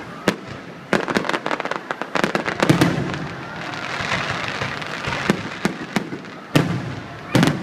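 Fireworks going off: a string of sharp bangs, with a stretch of dense crackling in the middle.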